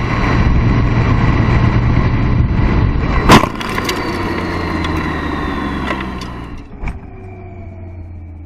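Car running with steady engine and road noise, then a loud, sharp collision impact a little over three seconds in, followed by a few smaller knocks and falling tones as the vehicle slows.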